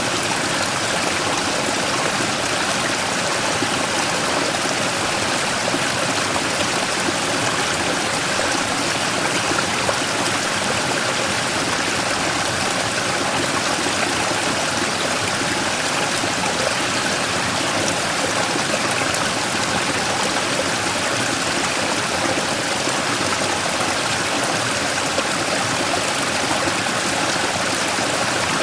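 Mountain stream rushing and splashing over a large rock in a small waterfall, a steady, even flow of water.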